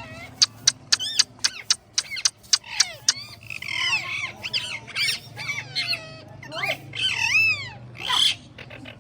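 Green parrot calling: a quick run of short, sharp screeches, several a second, for the first three seconds, then longer calls that swoop up and down in pitch.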